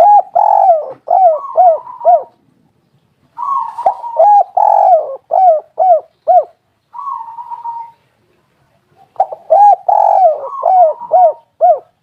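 Spotted dove cooing: three phrases, each a run of quick, arched coo notes, with a shorter, fainter call between the second and third.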